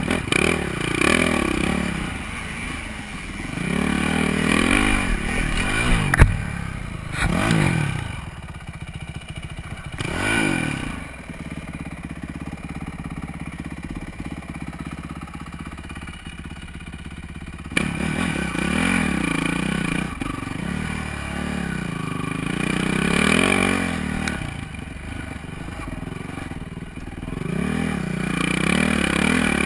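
Honda CRF450R dirt bike's single-cylinder four-stroke engine revving up and down over and over as it is ridden, with a sharp knock about six seconds in. From about ten to eighteen seconds it runs quieter and steadier, then the revving picks up again.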